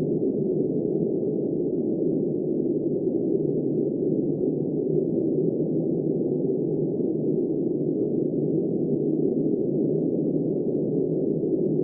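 Steady, muffled rush of wind, deep and even, with no hiss or high end and no gusts or breaks.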